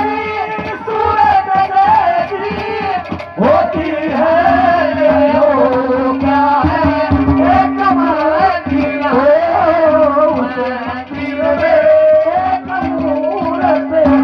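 Live Haryanvi ragni music: a wavering melody over a held drone note, with hand-drum beats throughout and a brief break about three seconds in.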